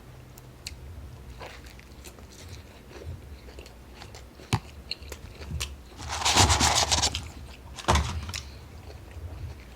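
A person eating a fast-food burger-and-fries meal close to the microphone: wet clicks of biting and chewing, with a louder crackling burst about six seconds in.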